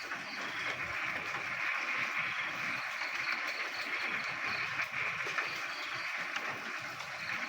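Frogs croaking in a dense, steady chorus during rain. A higher, rapid pulsed call rises above the din in runs of a second or two, coming and going.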